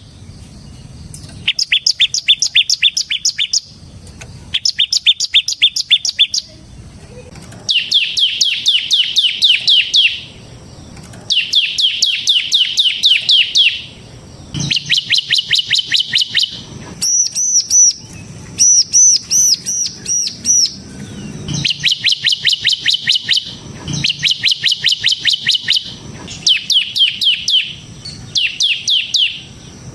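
Bar-winged prinia (ciblek semi) singing in repeated phrases of rapid, evenly spaced downslurred notes. Each phrase lasts two to three seconds, with a short pause between them. Midway, two phrases switch to higher rising-and-falling notes.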